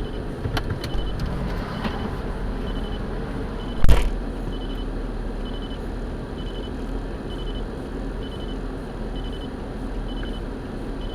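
Vehicle engine running steadily, with a short high beep repeating a little under once a second and a single loud thump about four seconds in.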